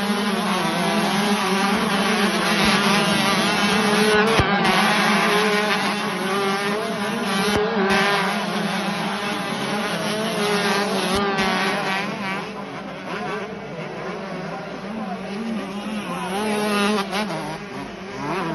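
Several 125cc two-stroke motocross bikes racing, their engines revving up and falling back, with many engine notes overlapping. The sound eases off somewhat about two-thirds of the way through.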